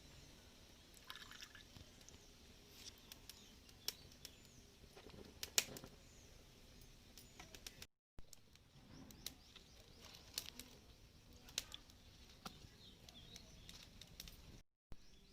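Faint outdoor background of bird chirps, with scattered small clicks and knocks. The loudest click comes about five and a half seconds in. The sound cuts out completely twice, briefly.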